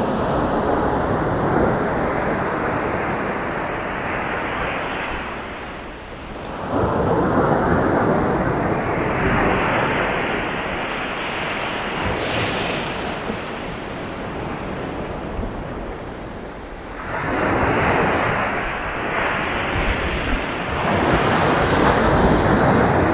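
Sea waves breaking on a beach: a continuous wash of surf, with two waves crashing in about seven and seventeen seconds in, each after a short lull.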